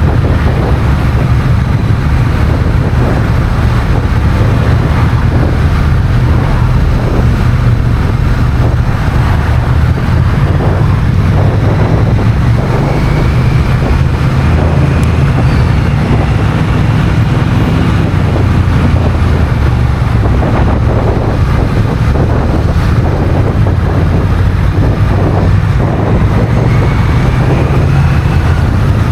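Wind buffeting a camera microphone on a moving motorcycle, a heavy steady rumble, with the Honda Rebel 1100's parallel-twin engine running beneath it.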